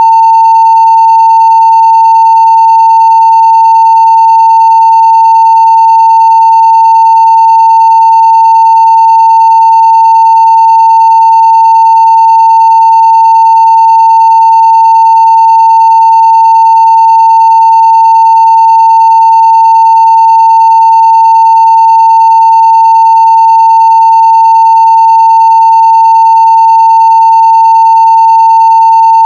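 A 900 Hz sine-wave test tone at full-scale level (0 dB): one loud, steady, unbroken pitch with faint higher overtones.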